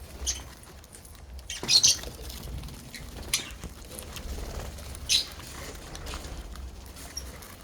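Lovebirds giving four short, high squeaky chirps, the loudest about two seconds in, over a steady low hum.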